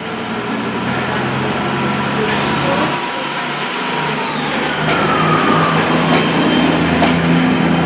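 Diesel multiple units pulling out of the station, engines running under power, with a whine that falls in pitch about halfway through and the engine note strengthening near the end.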